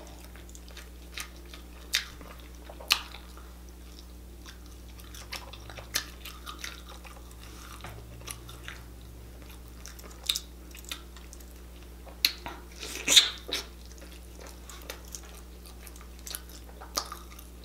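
Close-miked eating sounds: wet chewing, lip smacks and sticky clicks of sauce-covered fingers pulling apart saucy chicken and seafood. These come as scattered short sharp sounds, with a louder cluster about 13 seconds in, over a steady low hum.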